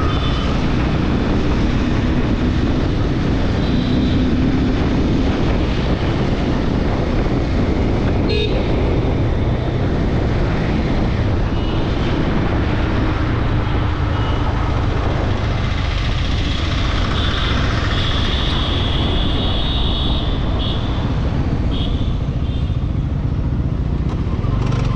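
Bajaj Pulsar N250's single-cylinder engine and exhaust running steadily under way, with road and wind noise. Vehicle horns sound a few times, about 4 seconds in and again from about 16 to 22 seconds.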